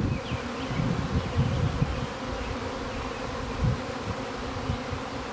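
Swarm of honey bees in flight, thousands of bees buzzing together in a steady hum, as the colony leaves its hive. Wind rumbles on the microphone.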